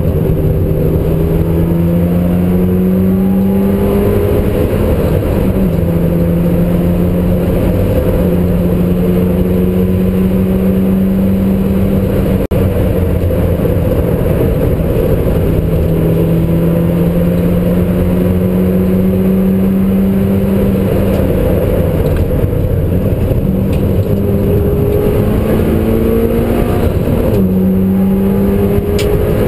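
Mitsubishi Lancer Evolution IX's turbocharged four-cylinder engine heard from inside the cabin, pulling hard through the gears on a tarmac rally stage. Its pitch climbs and drops back at each gear change, over steady road and tyre rumble.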